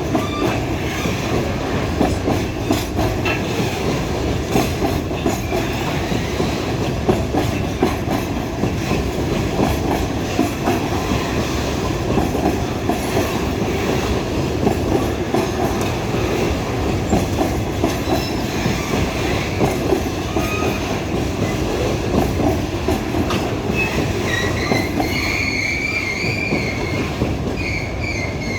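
Loaded freight train rolling past, its wagon wheels clacking over the rail joints in a dense run of clicks. Near the end a wavering, high-pitched wheel squeal sets in.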